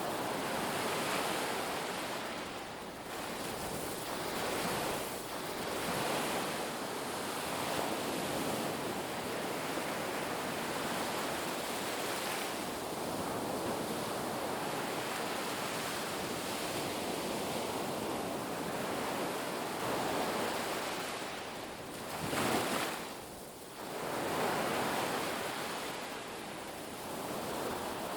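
Ocean waves breaking and washing on a beach, a continuous surf noise rising and falling in slow swells, with one louder wave surging about twenty-two seconds in and then briefly ebbing.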